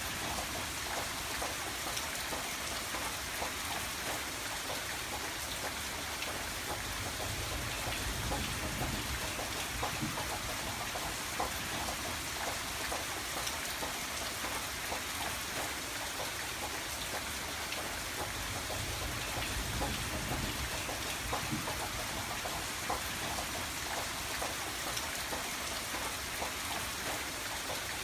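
Steady rain falling on a window, a dense even hiss with many small drop taps.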